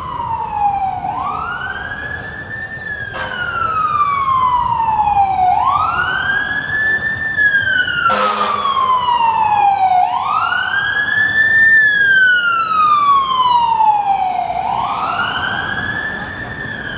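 Emergency vehicle siren wailing: each cycle is a quick rise in pitch followed by a long, slow fall, repeating about every four and a half seconds. It grows louder toward the middle and eases off slightly near the end. A short knock sounds just past halfway.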